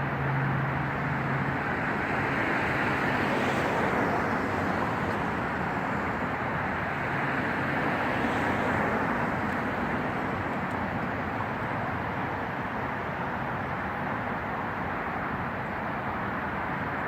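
Steady rush of road traffic, swelling slightly twice as vehicles pass.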